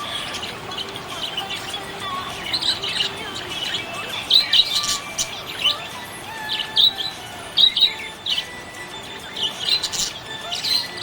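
Budgerigars chirping: a string of short, high chirps, some coming in quick clusters, over a faint steady background.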